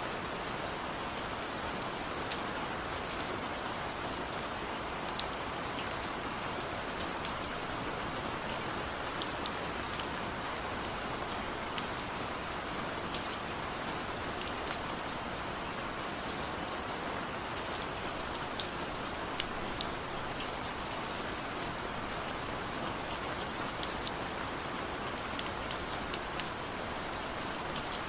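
Steady rain falling, with scattered sharp ticks of single drops striking a surface.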